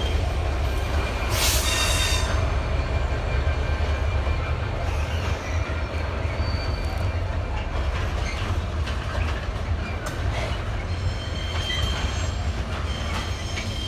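GB Railfreight Class 66 diesel freight train passing: a steady low rumble of the locomotive and container wagons on the rails. Thin, high wheel squeal comes in near the end.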